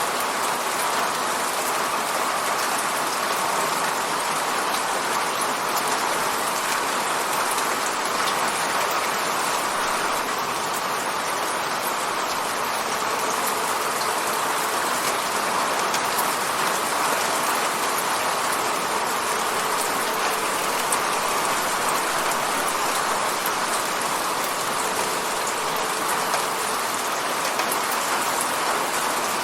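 Steady rain hitting a window pane, an even hiss with fine patter of individual drops.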